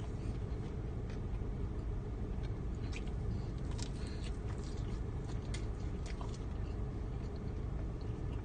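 A person chewing and biting into food, with scattered short crackles and clicks over a steady low rumble.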